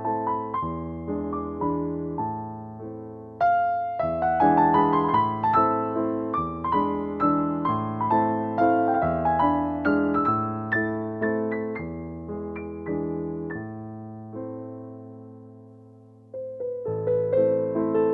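Background music: a solo piano piece, notes struck and left to ring and fade, with the phrase dying away about two-thirds through before it starts up again.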